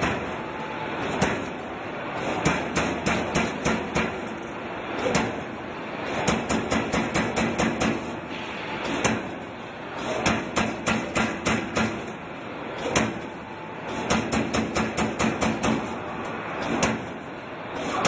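Ermak CNC turret punch press hitting sheet metal in quick runs of about six to eight strokes a second. The runs last a second or two, with short pauses between them and a low machine hum under each run.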